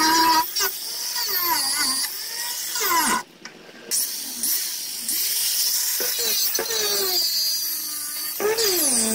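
Power grinder working on a boat's hull, its motor pitch rising and falling as it is pressed into the work, with a brief stop about three seconds in.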